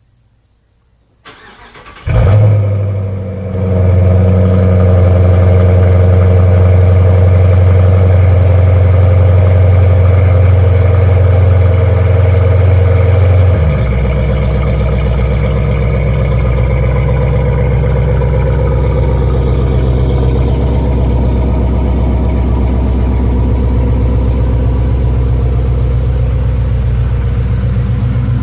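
Cold start of a 2015 Dodge Charger R/T's 5.7-litre Hemi V8 through a mid-muffler-delete exhaust with Cherry Bomb Extreme mufflers. The starter cranks for under a second and the engine catches with a loud flare, then runs at a steady, loud fast idle. About halfway through the idle steps down to a lower, quieter steady idle.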